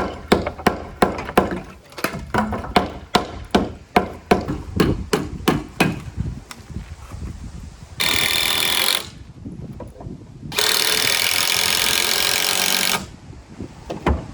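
A hammer driving nails into a timber frame: a quick, steady run of about three strikes a second for the first six seconds. Later come two bursts of steady hissing noise, one about a second long and one about two and a half seconds long, each cutting off suddenly.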